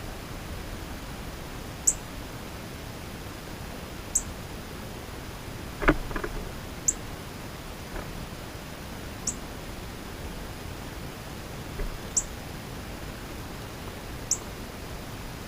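A bird repeating a short, high, thin chip note six times, about every two to three seconds, over a steady background hiss. A sharp knock comes about six seconds in.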